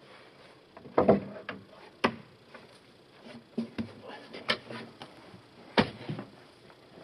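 Firewood rounds of Douglas fir knocking and thudding against one another and the truck box as the load begins to shift. Irregular sharp knocks, the loudest about a second in, two seconds in and near six seconds, with smaller clatters between.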